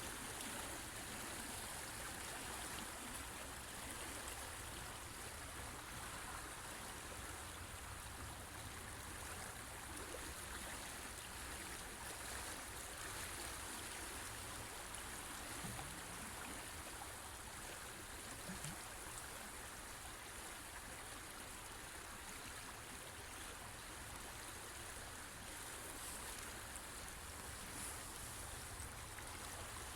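River water flowing over rocks, a steady rushing and babbling that does not rise or fall.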